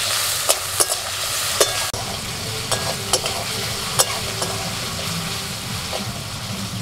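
Diced potatoes sizzling steadily as they fry in hot mustard oil in a metal kadai. Repeated sharp clicks and scrapes come from a metal spatula striking the pan as the potatoes are stirred.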